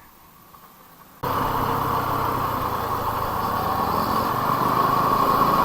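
Motorcycle engine running steadily, starting abruptly about a second in and carrying on at a constant level.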